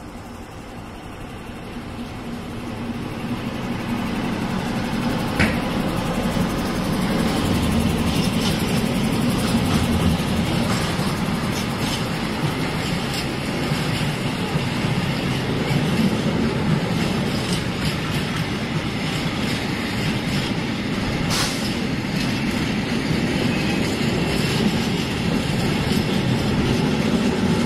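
Diesel freight train approaching and passing close: a DB Cargo Class 60 locomotive's engine grows louder over the first few seconds, then the steady rumble of a long rake of covered wagons rolling past, with a few sharp clicks from the wheels.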